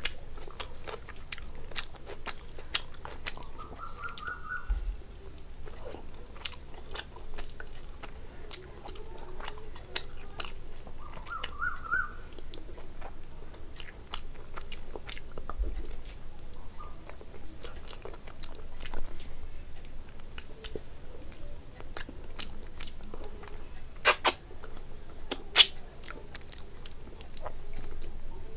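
A person chewing and biting mouthfuls of curried meat and rice, with many sharp wet mouth clicks and smacks. Two louder clicks come near the end.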